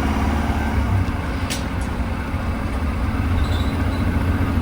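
School bus engine running with a steady low rumble, heard from inside the bus, with a faint click about a second and a half in.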